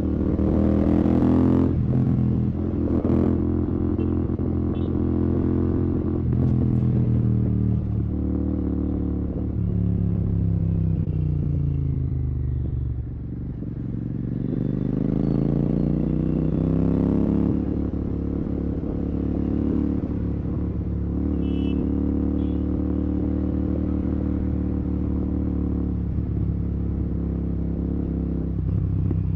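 Royal Enfield Continental GT 650's parallel-twin engine through a Red Rooster aftermarket exhaust with no dB killer, running under way. The note rises and holds, falls away to a low around the middle as the throttle comes off, then revs up again and settles into a steady cruise.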